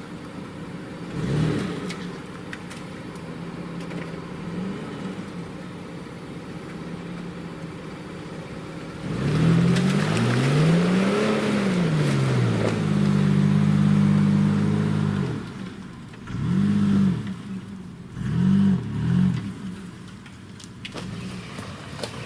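Off-road 4x4 SUV engine running steadily at low revs, then revving up and down about nine seconds in and holding high revs for a few seconds. Several short bursts of throttle follow near the end.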